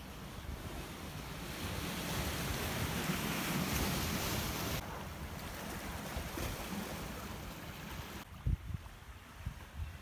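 Sea waves washing on a beach, with wind buffeting the microphone; the surf builds to a peak about four seconds in, then drops off abruptly, and a couple of low thumps come near the end.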